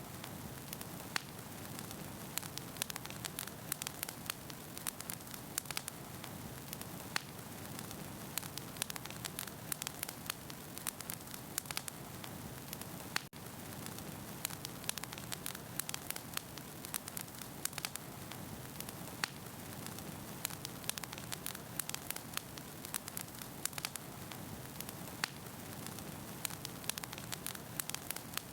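Wood fire burning in a fireplace: a steady hiss with frequent sharp crackles and pops of burning logs, and a brief dip in level about thirteen seconds in.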